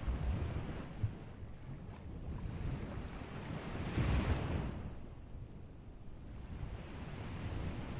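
Ocean surf washing on a beach, swelling and fading, with one wave surging and breaking about halfway through. Wind rumbles on the microphone underneath.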